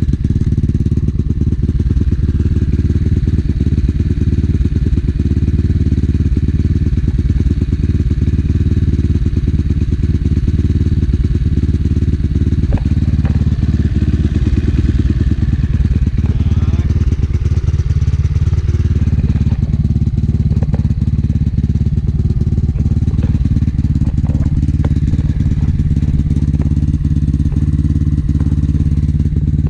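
Enduro motorcycle engine running steadily at idle.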